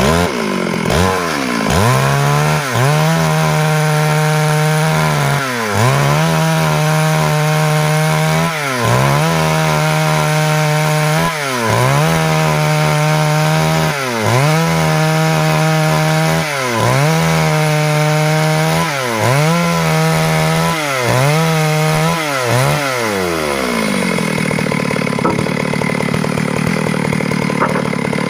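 Stihl MS 382 two-stroke chainsaw running at high revs while cutting wood, its engine note dipping and recovering every two to three seconds. About 23 seconds in the pitch falls away as the saw drops back to idle.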